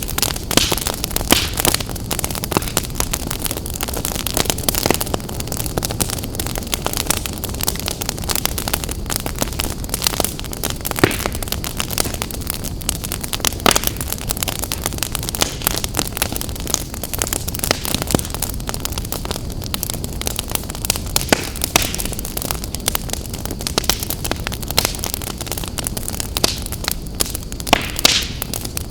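Wood fire burning in a fireplace: a steady low roar and hiss with irregular sharp crackles and pops.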